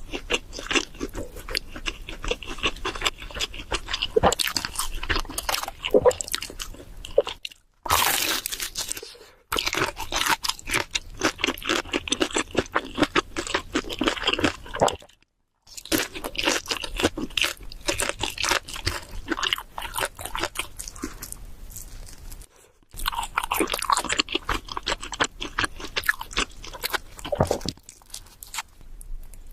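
Close-miked eating of cheese seafood pizza: bites into the crust and steady wet chewing, with dense irregular crunches and smacking. The sound is broken several times by a sudden brief silence.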